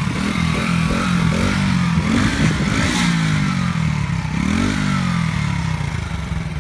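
Kuba RX9 motorcycle's 50 cc four-stroke engine being revved while stationary, the pitch rising and falling several times with throttle blips, then dropping back to a steady idle near the end.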